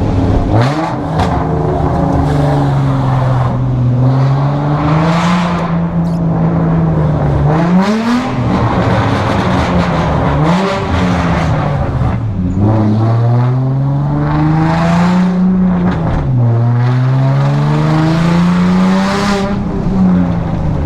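Car engine under repeated acceleration, its pitch climbing steadily and then dropping sharply several times, over road and wind noise.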